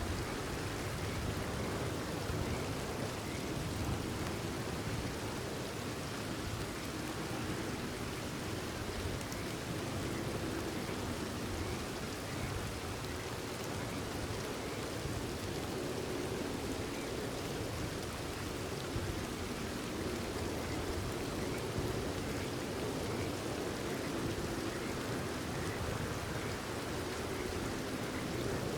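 Steady rain falling and pattering on surfaces, with faint, short, repeated frog calls in the background.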